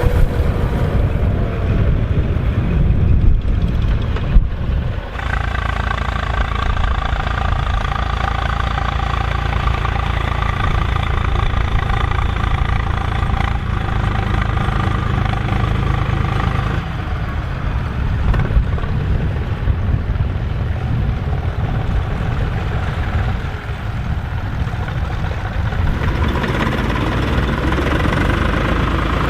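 Volvo BM farm tractor diesel engines running steadily while ploughing. The engine note changes abruptly about 5 seconds in, again past halfway, and near the end.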